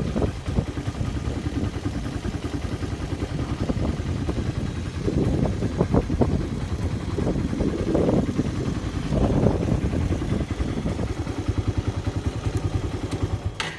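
Suzuki Raider 150 motorcycle's single-cylinder four-stroke engine running at a steady, pulsing idle, with a few brief swells in the middle. The sound cuts off abruptly near the end.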